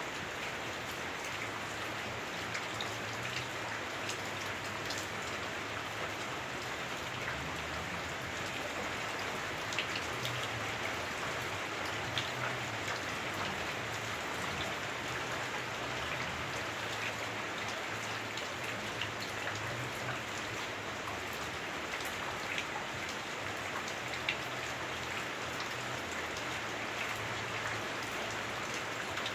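Heavy rain on a house roof, heard from indoors: a steady hiss of rainfall with many scattered sharper drop hits.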